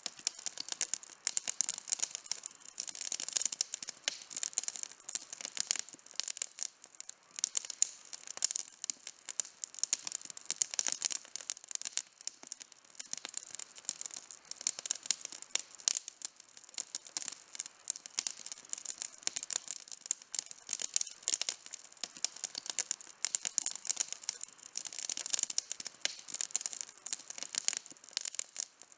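Wood campfire burning, crackling and popping continuously with dense, irregular sharp snaps.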